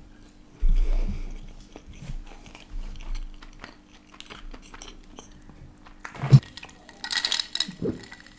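Close-miked chewing and mouth sounds from a person eating, with a plastic takeaway container being handled and a sharp knock about six seconds in. Near the end, slurping sips of a fizzy cola from a glass.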